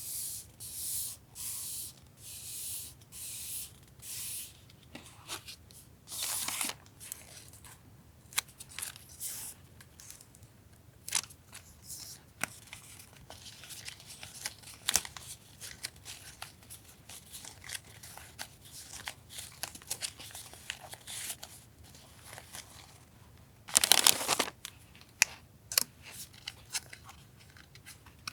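Paper and plastic packaging being handled: rustling, crinkling and tearing. A run of short swishes comes about once a second in the first few seconds, then scattered small clicks and crinkles, and a louder burst of crinkling about four seconds before the end.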